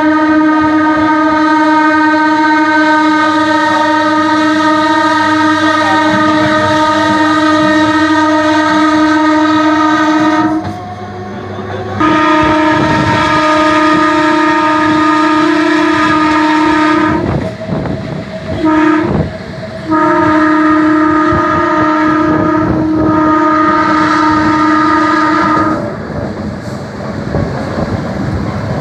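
Train horn sounding a steady chord in long blasts: one about ten seconds long, a second of about five seconds, a brief toot, then another of about six seconds, with the rumble and wheel clatter of a moving train beneath. Near the end only the running noise is left.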